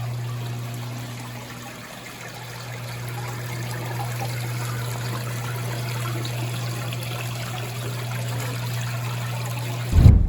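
Steady rushing, trickling noise like running or bubbling water, over a low steady hum. A loud thump comes near the end, and then the sound cuts off abruptly.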